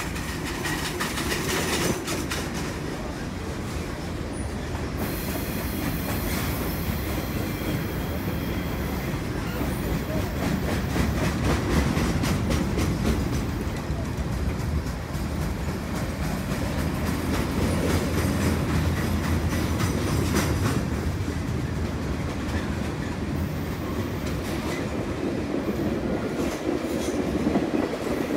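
CN freight train's boxcars and tank cars rolling past at steady speed: a continuous rumble of steel wheels on rail, with rapid clicking as the wheels pass over rail joints.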